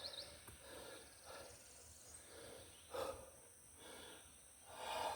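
A man's heavy breathing while straining to haul a sunken tree: a few soft, short puffs, the clearest about three seconds in and again near the end.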